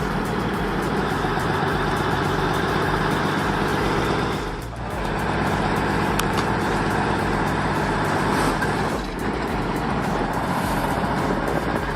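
M923 military cargo truck's diesel engine running hard while pulling against a tree stump, steady and loud with two brief dips, about five and nine seconds in.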